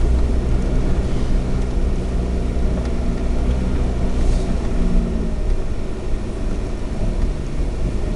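Suzuki Alto 4WD kei car driving: its small three-cylinder engine running steadily under a loud, even road rumble from the tyres.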